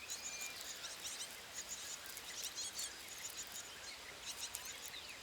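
Faint high-pitched chirping, many short calls in quick succession: Rüppell's weaver chicks begging in the nest.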